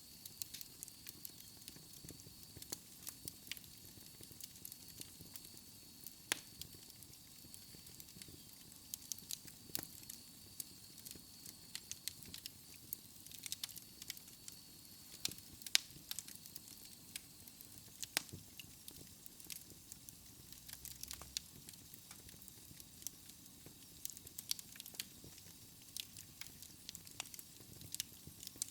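Wood fire in a fireplace crackling, with frequent irregular sharp pops over a soft hiss. A faint thin high whistle runs through the first half and fades out around halfway.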